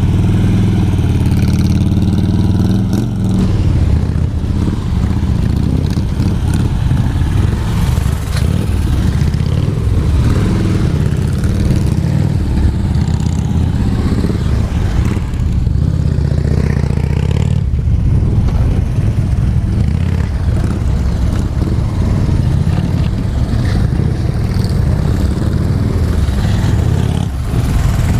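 Harley-Davidson touring motorcycle's V-twin engine running at low revs through slow-speed turns, its pitch rising and falling now and then as the throttle is worked.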